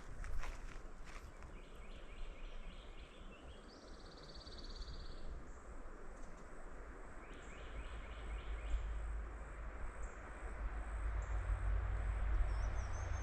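Outdoor woodland ambience: several short bursts of rapid, high trilling calls from birds, over a low rumble that grows louder near the end.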